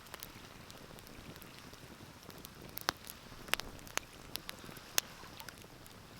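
Wood fire crackling in a fireplace: scattered sharp pops, clustered in the second half, over a faint steady hiss, with the loudest pop about five seconds in.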